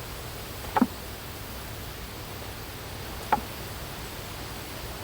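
Two brief knocks of wooden beehive boxes being nudged into line, about two and a half seconds apart, over a steady hiss.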